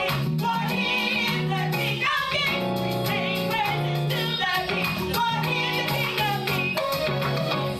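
A worship song: singing voices over a band with steady bass notes.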